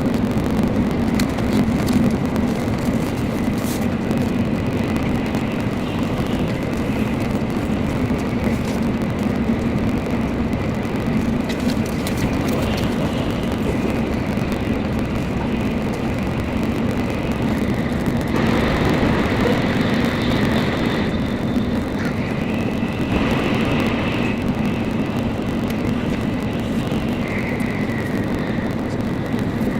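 Shinkansen Nozomi bullet train running at speed, heard from inside the passenger car as a steady rumbling rush. In the second half a higher whine comes in and shifts pitch for several seconds.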